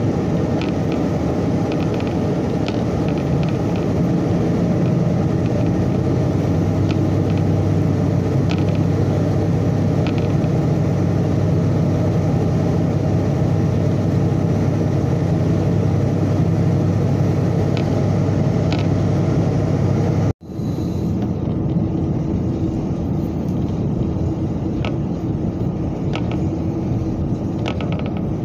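Diesel railcar running, heard from inside the cabin: steady engine and wheel rumble with a few faint clicks. About two-thirds of the way through the sound breaks off for an instant and returns quieter and smoother as the train draws into a station.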